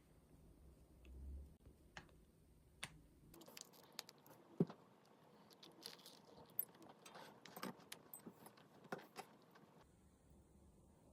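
Faint scattered clicks and light clinks, as of small hard objects being handled, with one sharper tap about four and a half seconds in.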